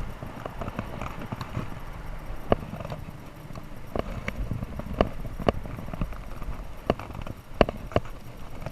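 Irregular sharp knocks and clacks, roughly one or two a second, over a steady low rumbling noise.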